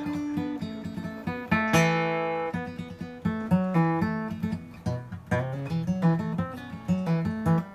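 Acoustic guitar played in plucked notes and strummed chords, with one chord about two seconds in left to ring.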